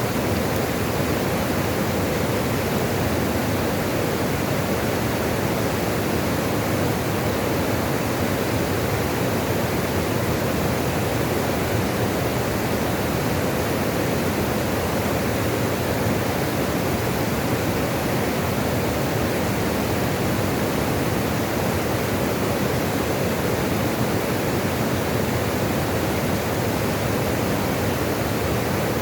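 Running water rushing steadily and evenly, a continuous noise with no breaks.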